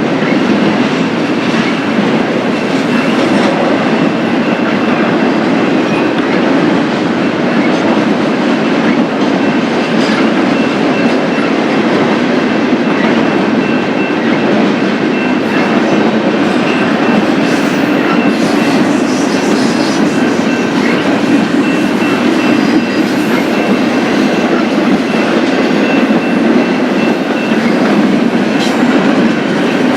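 Freight train cars rolling past on the rails in a loud, steady rumble with a rhythmic clatter of wheels over rail joints. A faint, steady high tone sits above the rumble.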